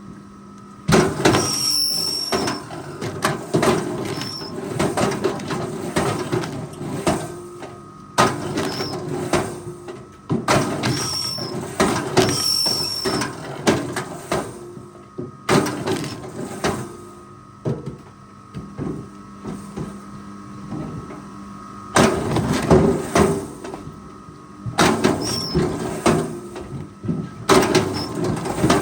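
Forestry machine at work: a steady engine and hydraulic hum under repeated bursts of clattering and creaking, with brief high squeals.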